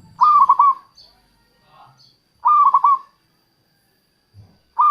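Zebra dove (perkutut) cooing: two short phrases about two seconds apart, with a third beginning right at the end. Each phrase is a rising note followed by a few quick stuttered notes. A faint, steady, high-pitched tone runs underneath.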